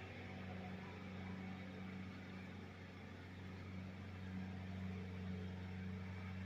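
Hunter ceiling fan running on medium speed in reverse: a steady electric motor hum with a soft rush of moving air.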